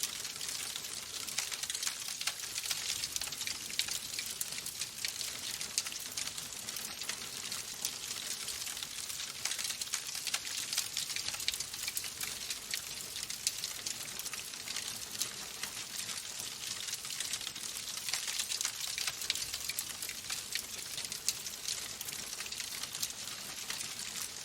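Wood fire in a fireplace crackling steadily: a dense run of small pops and snaps over a soft hiss.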